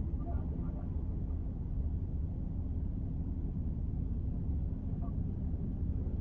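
Car driving through city streets: steady low road and engine rumble, with a few faint brief higher sounds about half a second in and again about five seconds in.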